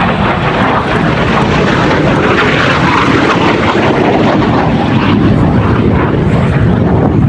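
A MiG-17 jet's engine roaring as it flies a display pass, the sound rising steadily in level.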